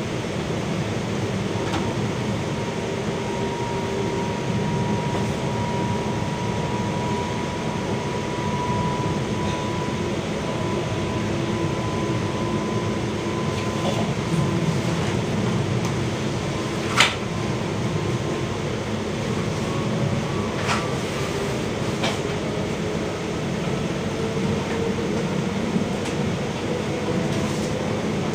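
Steady running noise of a moving passenger train heard from inside the carriage, with a faint whine that drifts slowly in pitch. A few sharp clicks stand out, the loudest about 17 seconds in.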